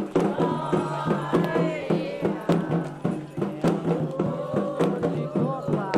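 Candomblé ritual music: drums keep a steady beat under chanted singing.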